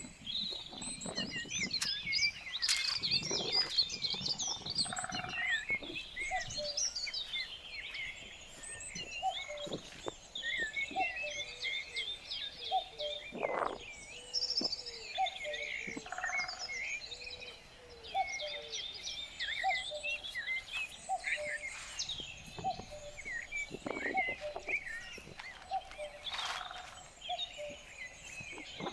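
Several small birds chirping and singing at once, with a run of short, lower calls repeated about once a second through the middle and a few soft knocks.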